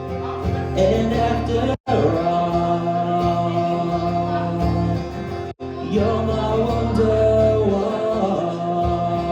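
Acoustic guitar playing chords in a pop-rock song, with a voice singing without clear words in two stretches. The sound drops out for an instant twice.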